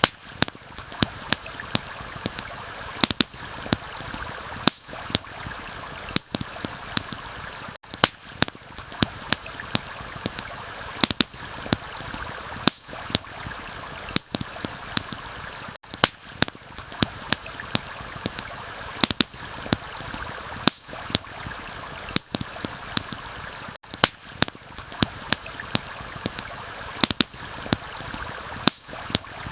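Campfire crackling, with irregular sharp pops several times a second, over the steady rush of a flowing stream. The mix dips briefly about every eight seconds.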